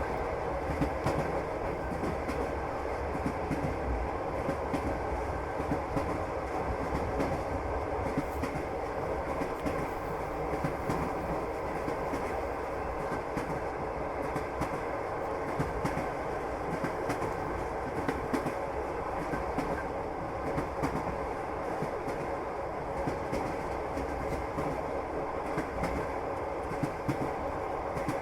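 Passenger train running steadily, its wheels clacking over the rail joints above a continuous rumble.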